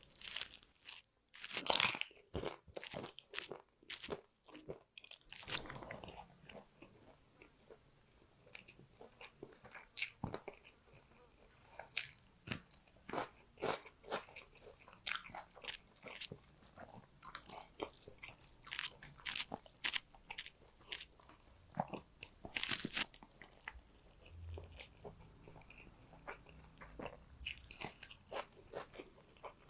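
Close-miked eating of fish curry and rice: steady chewing with irregular crunches and wet mouth clicks, the loudest crunching about two seconds in.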